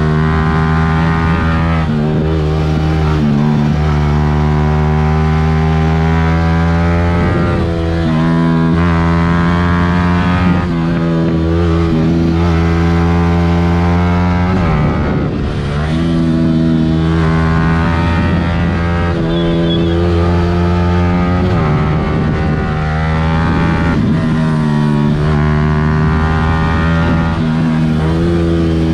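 Yamaha R15 V3's single-cylinder engine running hard at high revs while riding, heard from the bike itself with wind noise. The revs hold steady for long stretches and break briefly a few times.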